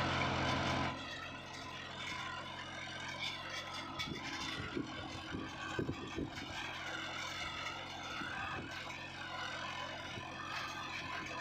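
Tractor engine running steadily, loudest in about the first second and then a little quieter, with a few clicks and knocks over it.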